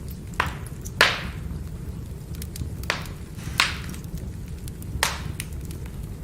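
Firewood burning with a steady low rumble, broken by about five sharp crackling pops from the logs.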